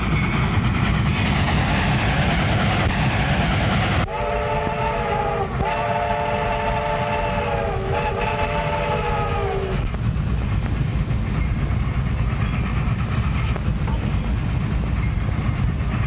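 Train running with a steady rumble and clatter; about four seconds in, its multi-tone locomotive whistle blows three times in quick succession, for some six seconds in all, the last blast dipping slightly in pitch as it ends.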